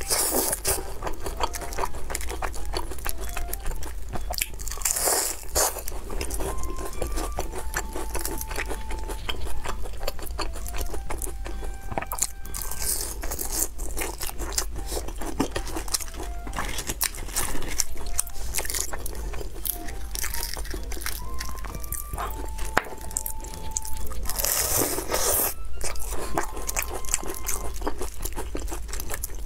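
Crunching bites and chewing of crispy fried smiley-face potato cakes, with a few louder crunches among steady chewing. A faint simple melody plays underneath.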